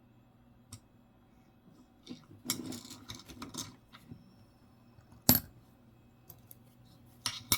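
Coins being handled on a table: a short stretch of rustling handling noise, then a sharp click halfway through and two more clicks near the end as coins are set down.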